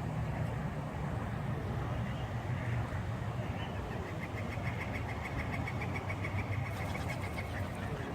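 Steady low rumble of distant road traffic. From about four seconds in, a rapid, evenly spaced run of high ticks, about six a second, lasts nearly three seconds.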